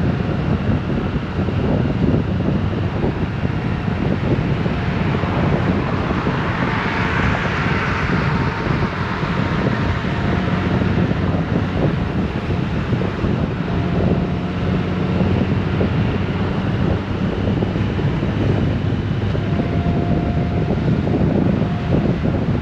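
Honda Gold Wing motorcycle cruising at a steady speed: a constant engine drone under heavy wind noise on the microphone. A rush of hiss swells briefly about seven seconds in.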